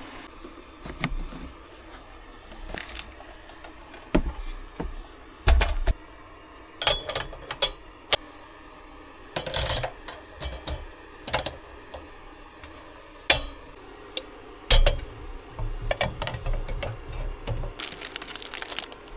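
Irregular clicks, knocks and clinks of small objects being handled and set down, with a few heavier thumps.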